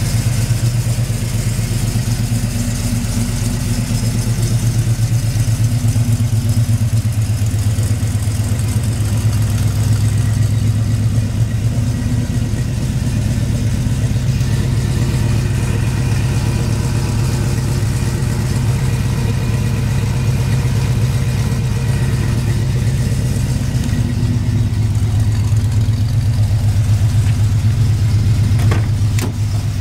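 GM 350 cubic-inch (5.7 L) V8 crate engine idling steadily. Near the end, a couple of short clicks as the door handle is pulled.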